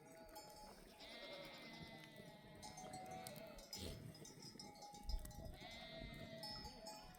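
A flock of sheep bleating faintly, several overlapping calls one after another.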